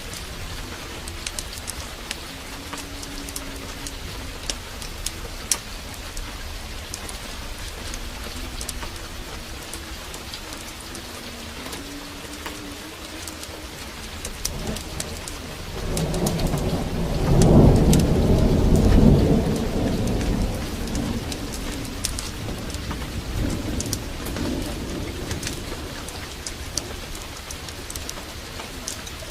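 Heavy rain pouring steadily, with scattered sharp drop ticks. About halfway through, a roll of thunder swells, rumbles loudest for a few seconds and slowly fades.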